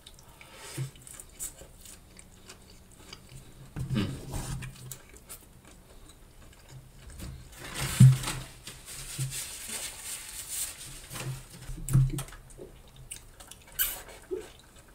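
A person chewing soft, gravy-covered loaded fries close to the microphone, with wet mouth sounds and a few louder smacks about every four seconds. Near the end, a sip from a paper drink cup.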